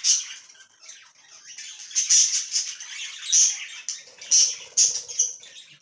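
Pet budgerigars chattering and squawking: a quick, busy run of short high chirps from several birds.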